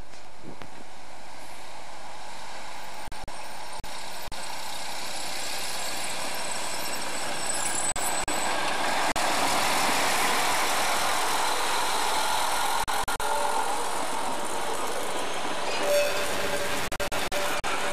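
Narrow-gauge diesel railcar and its train of coaches passing close by: engine and wheels on the rails, loudest about ten seconds in as the railcar goes past, then the steady rolling of the coaches.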